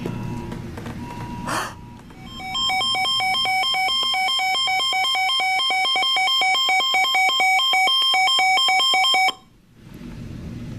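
Electronic tornado-warning alert tones from a NOAA weather radio and a cell phone's emergency alert. A faint steady tone comes first; about two and a half seconds in, a loud, rapid, many-pitched electronic beeping starts and runs for about seven seconds, then cuts off suddenly.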